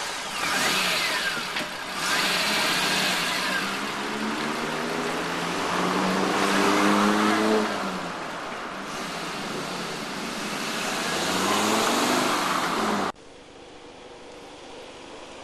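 Car engine running and accelerating, its pitch rising twice as it pulls away. The sound cuts off abruptly near the end, leaving a quieter hiss.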